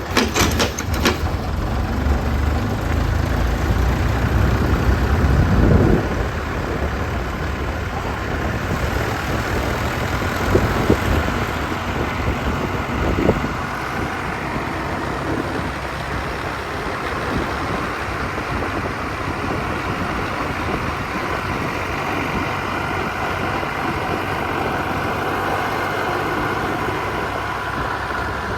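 Tractor engine running steadily, with somewhat louder low rumble for the first few seconds before it settles to an even note.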